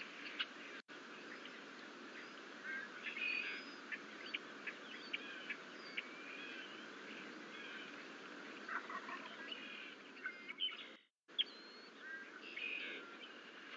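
Birds chirping and calling in a varied mix of short chirps, clicks and whistled glides over a steady background hiss. The sound cuts out briefly about 11 seconds in.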